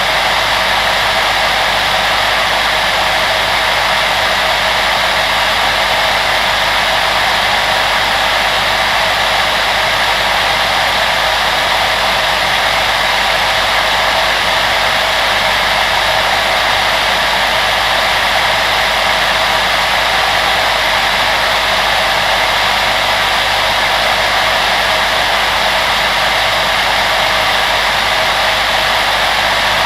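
Steady rush of an electric blower fan: a constant airflow noise with a faint low motor hum, unchanging throughout.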